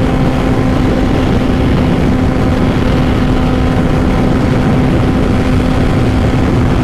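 Honda CBR600RR inline-four with a Two Brothers full exhaust running at a steady engine speed while riding, heard over low rushing road and wind noise.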